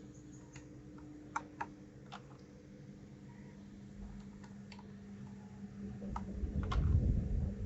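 Scattered small plastic clicks of keycaps being handled and fitted onto a keyboard, over a steady low hum. A louder low rumble of handling noise builds near the end.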